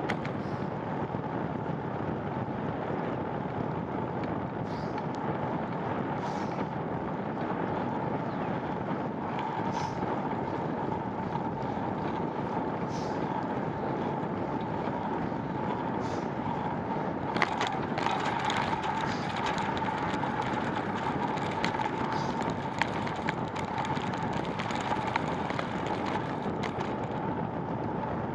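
Bicycle ride on wet roads: steady wind and tyre noise with a constant hum. From a little past halfway, scattered sharp clicks and ticks come in.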